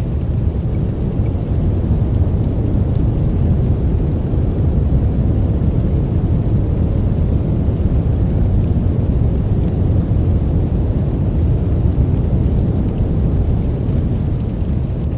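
Steady, deep rushing noise of a sleep noise track, its weight in the bass like brown noise, unchanging throughout with no separate drops or thunderclaps.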